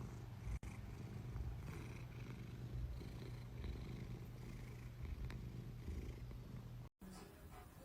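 Domestic cat purring, a faint low rumble, cutting off suddenly near the end.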